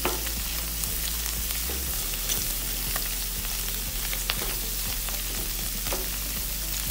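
Sliced mushrooms and garlic sizzling in melted butter in a nonstick pan, with a few sharp ticks and scrapes of a spatula as they are stirred.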